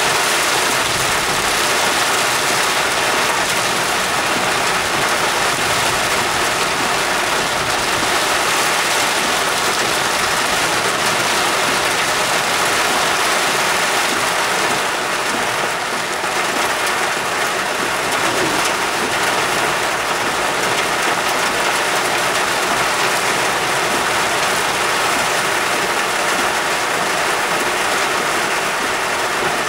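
Torrential rain beating on a car's roof and windshield, heard from inside the car as a dense, steady hiss that barely changes.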